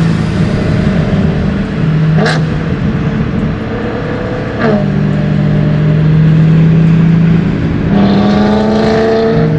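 Single-turbo BMW M3 CS's inline-six engine pulling through the gears, with sharp pops at the shifts about two and four and a half seconds in, then the revs climbing near the end.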